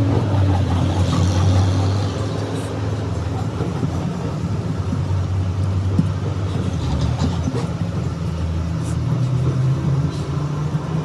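An engine running steadily at a low, even hum.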